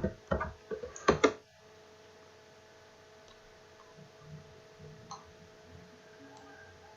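A few faint, scattered computer mouse clicks over a steady low electrical hum, heard just after a short stretch of speech.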